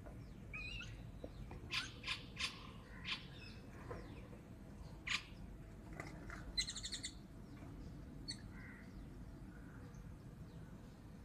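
Birds calling: a few short, sharp call notes about two seconds in, another near five seconds, and a harsher, buzzy call a little before seven seconds.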